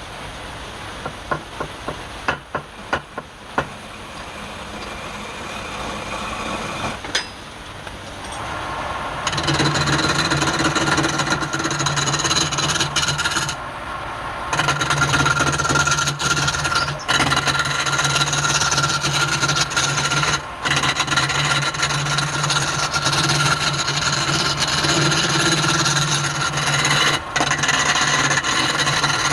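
Wood lathe running with a steady motor hum while something rubs and scrapes against the spinning wood, starting about nine seconds in and pausing briefly near the middle. A few sharp knocks come in the first few seconds.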